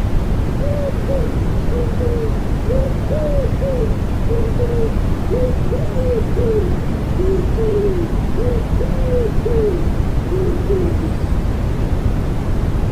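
Common wood pigeons cooing in a string of soft repeated phrases over a steady rushing white-noise bed. The cooing stops about two seconds before the end.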